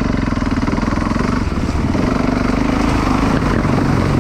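Dirt bike engine running under throttle, its revs holding and then rising and falling.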